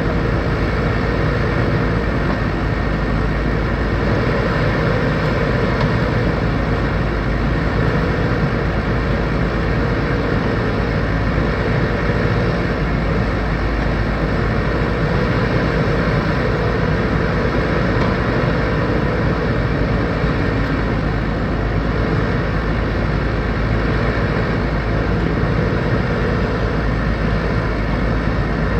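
Diesel engine of a backhoe loader at work running steadily, with a mid-pitched whine that wavers up and down.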